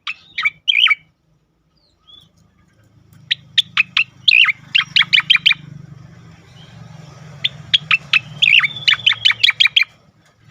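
Striated grassbird (cica koreng) singing in three bursts of quick, sharp down-slurred notes, the longer bursts about three seconds each, with a low steady hum underneath.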